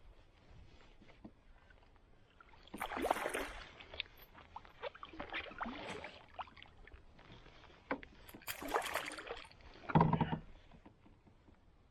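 Water splashing and sloshing beside a canoe in several bursts while a hooked bass is brought in, with a heavy thump on the hull about ten seconds in.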